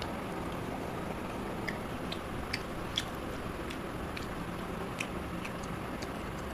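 A person chewing and biting pieces of chicken curry, with scattered small wet mouth clicks and smacks, the sharpest about three seconds in, over a steady hiss.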